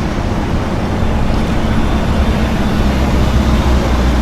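A motor vehicle engine running at a steady low, unchanging pitch amid street traffic noise, getting slightly louder after about a second.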